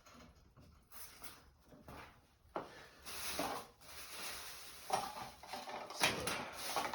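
Scattered clunks, knocks and rustles of tools and objects being handled and set down, several louder knocks in the second half.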